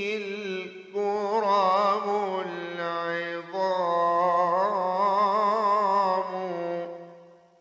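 Male voice chanting an Islamic ibtihal, drawing out a long wordless melisma with a wavering, ornamented pitch in three held phrases, then fading away near the end.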